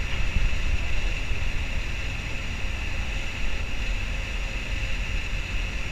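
Distant rail traffic in a station yard: a steady low rumble with a constant higher hiss over it.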